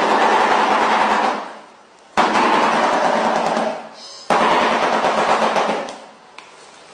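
Shoebill stork clattering its bill: a loud, rapid rattle that sounds like a gun. It comes in three bouts, about two seconds apart, each starting suddenly and dying away.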